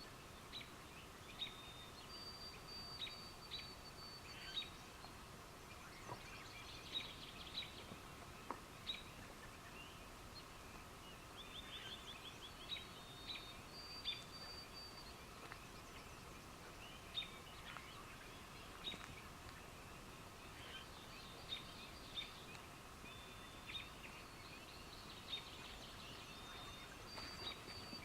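Night-time wildlife chorus: sharp, high chirps and peeps about every second or two, with a few short, high, level trills, over a faint steady background hum of distant calls.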